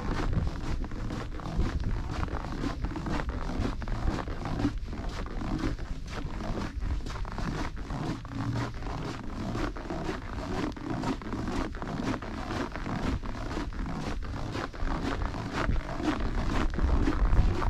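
Footsteps of a person walking at a steady pace, about two to three crunching steps a second, over a steady low rumble.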